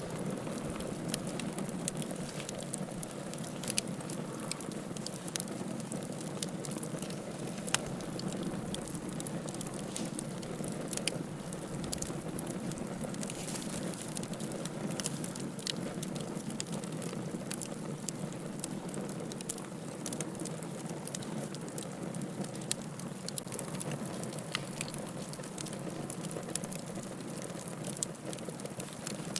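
Wood fire burning in a fireplace: a steady low rush of flame with frequent sharp crackles and pops from the firewood, scattered irregularly throughout.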